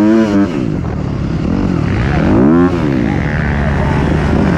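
Dirt bike engine revved in short blips, rising and falling in pitch, twice: once right at the start, cutting off after about half a second, and again about two seconds in. Between and after the blips, engines run steadily at idle.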